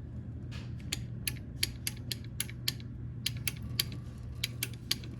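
Sharp mechanical clicks, about three to four a second, begin about a second in over a steady low hum.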